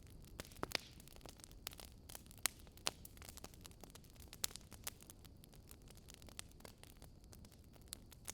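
Wood fire crackling: irregular sharp pops and snaps, a few louder than the rest, over a low, steady rumble.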